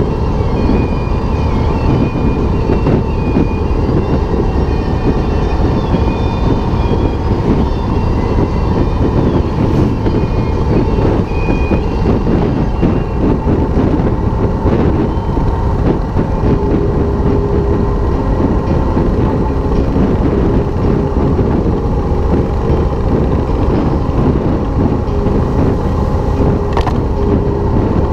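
2007 Harley-Davidson Softail Custom's V-twin engine running steadily at road speed, mixed with heavy wind rush on a windshield-mounted GoPro.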